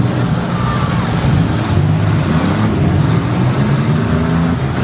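Several demolition-derby minivans' engines running and revving together, their pitch rising and falling as the drivers work the throttles.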